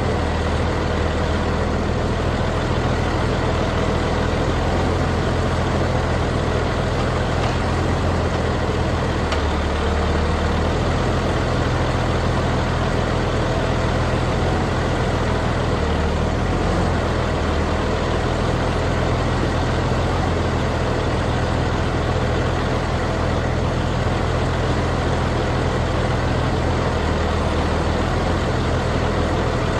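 A heavy engine running steadily at a low idle-like speed, with a deep, even hum.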